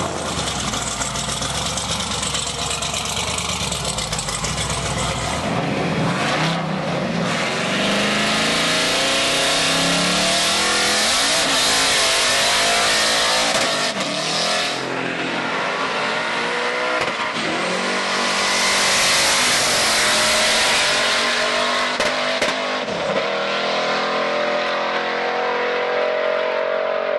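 Twin-turbocharged Dart-block 427 LS V8 in a Cadillac Escalade at full throttle down a drag strip, its pitch climbing in repeated sweeps as it pulls through the gears.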